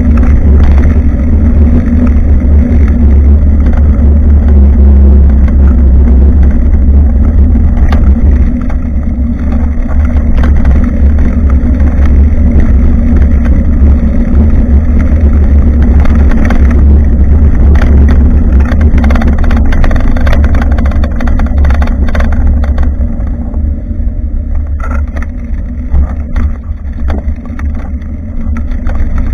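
Wind from riding buffets a bicycle-mounted action camera's microphone as a steady, heavy low rumble mixed with road noise. It eases a little about two-thirds through, and a few short knocks come near the end.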